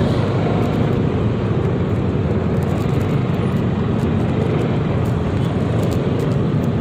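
Steady riding noise from a Yamaha XMAX 300 scooter moving through traffic: engine and road noise that holds an even level throughout.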